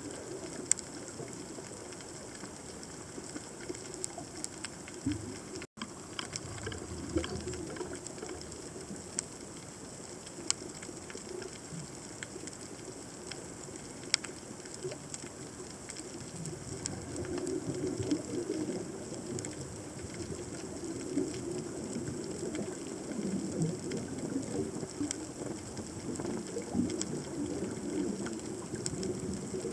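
Underwater ambience picked up by a submerged camera: a low, uneven rumble of moving water, with scattered sharp clicks and crackles throughout. The rumble grows stronger about halfway through, and the sound drops out for an instant about six seconds in.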